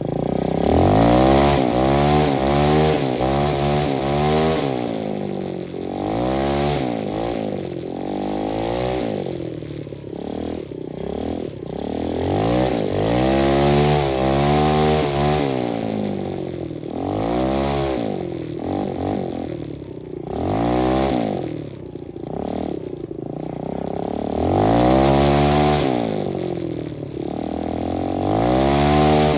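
125cc dirt bike engine throttled up and down again and again, its pitch climbing and dropping back every few seconds.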